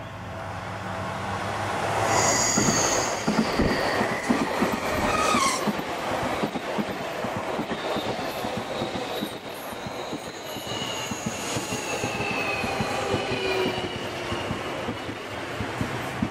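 Seibu 40000-series electric commuter train passing close while braking into a station: its wheels clatter steadily over the rail joints, with high squealing from about two seconds in. Later, several tones fall slowly in pitch as the train slows.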